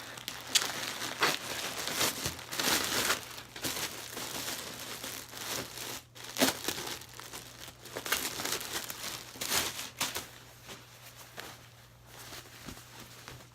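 A package being opened by hand: its packaging crinkles, rustles and tears in irregular handling noises with sharp crackles, growing sparser near the end.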